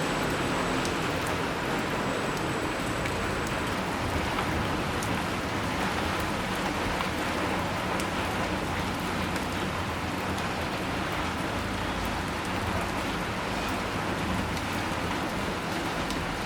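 Steady rain falling on surfaces, with single raindrops ticking here and there through the even hiss.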